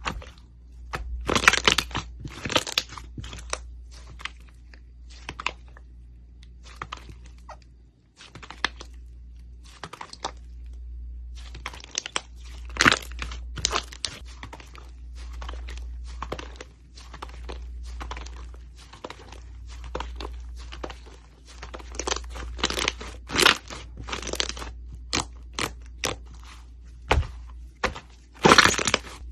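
Slime being squeezed and pressed by hand: a run of sticky crackling clicks and pops with louder crunching clusters now and then, over a low steady hum.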